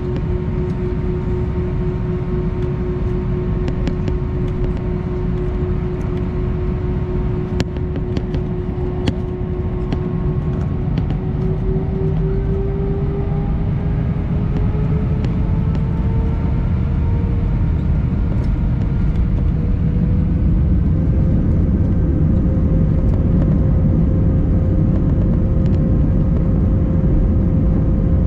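Airbus A319's IAE V2500 jet engines heard from inside the cabin: a steady hum over a low rumble that rises in pitch over about ten seconds as the engines spool up, then holds at the higher note.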